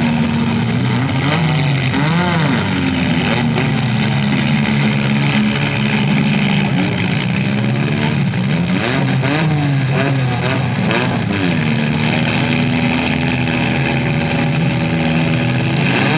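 Several compact cars' engines running and repeatedly revving up and down in a demolition derby, with a few short knocks in between.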